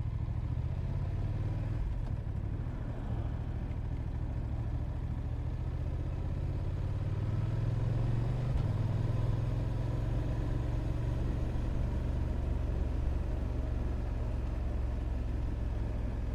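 Motorcycle engine running on the move, a steady low drone that swells a little about eight seconds in.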